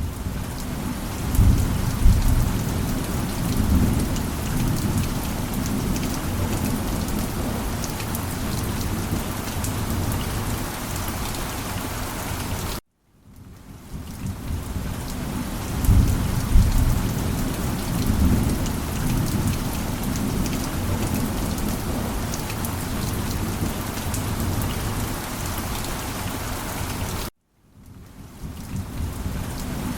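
Heavy rain falling steadily, with low thunder rumbling a couple of seconds after each restart of the sound. The track cuts out to silence for a moment twice, about halfway through and near the end, and the same rain-and-thunder stretch begins again.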